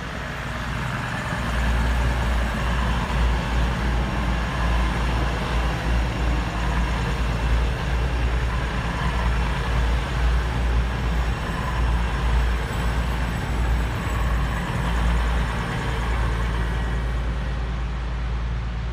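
Diesel passenger trains passing close by at speed: an InterCity-liveried train, then a purple East Midlands Railway Class 222 Meridian. A steady, loud deep rumble of wheels on rail builds about a second in and eases near the end.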